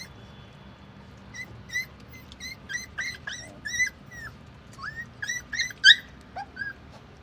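Gaddi (Himalayan sheepdog) puppies giving a string of short, high-pitched cries, some bending up or down in pitch. They start about a second in, come more thickly after that, and the loudest is near the end.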